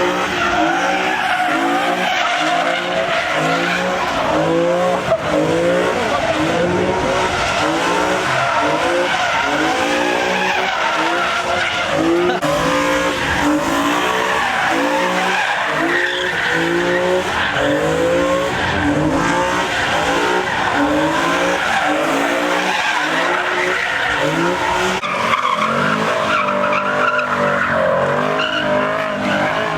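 Infiniti car doing donuts: the engine revs up and falls back about once a second while the tyres screech continuously on the pavement.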